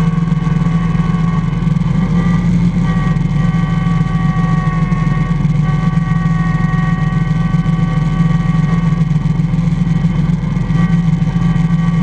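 IH Cub Cadet 147 garden tractor's 14 hp single-cylinder Kohler engine running steadily under way, a low drone with a steady whine above it.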